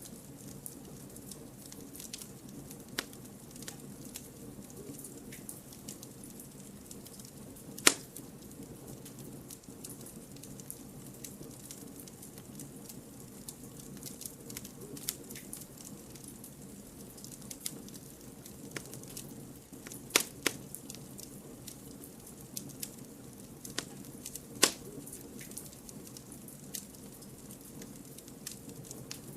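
Wood campfire burning with a steady low rumble and scattered crackles and sharp pops, the loudest about a third of the way in and twice more later on.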